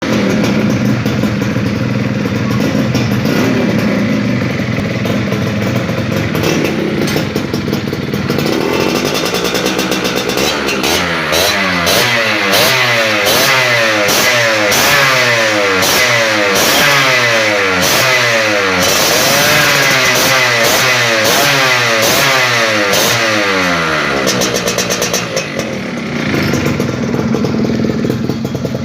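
Yamaha F1ZR's two-stroke single-cylinder engine running through an aftermarket 'kemrincing' expansion-chamber exhaust with its ringing two-stroke note. It idles at first, then from about ten seconds in is revved up and let fall again roughly once a second, and settles back to idle near the end.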